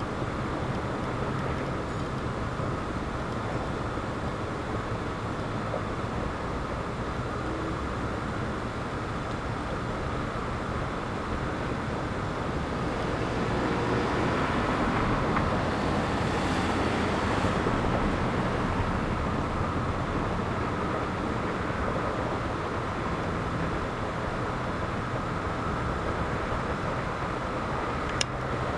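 Wind blowing in a steady rush that swells for a few seconds midway, with one short click near the end.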